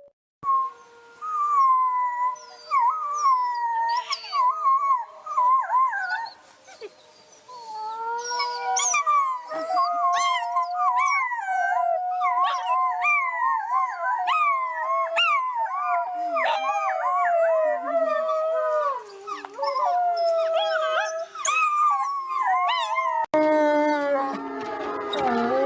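A pack of wolves howling in chorus: many overlapping wavering howls with quick yips mixed in. Near the end the sound cuts to a lower, steadier howl.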